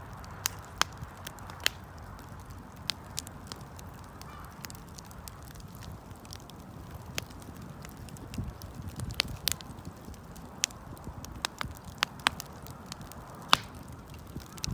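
Wood campfire burning: irregular sharp pops and crackles of the burning wood over a low, steady background rumble.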